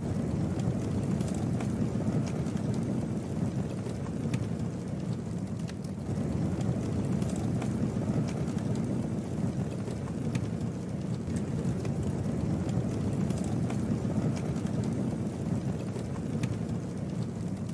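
Campfire burning with a steady low rush of flame, broken by scattered sharp crackles and pops from the burning wood.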